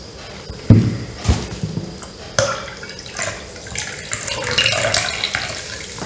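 Close-miked eating: chewing a soft-bread sandwich filled with ham, crab surimi and salad, with wet mouth and lip-smacking sounds. Two low thumps come in the first second and a half, then a run of wet, crackly chewing noises.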